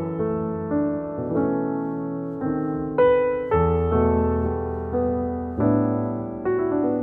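Slow piano music: chords and single notes struck about once a second, each ringing and fading before the next.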